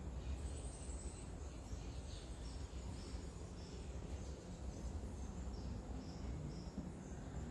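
Faint outdoor ambience: a low steady rumble with faint, scattered high chirps.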